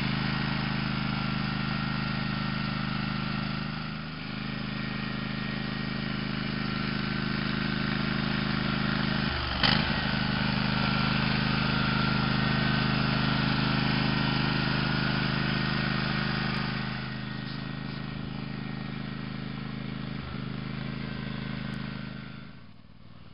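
Small engine of a ride-on vehicle running steadily, with one sharp knock partway through. It grows quieter in steps near the end as the vehicle moves away.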